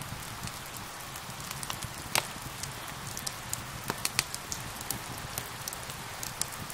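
Steady rain hiss mixed with a crackling wood fire, whose sharp pops and snaps come at irregular moments, the loudest about two seconds in.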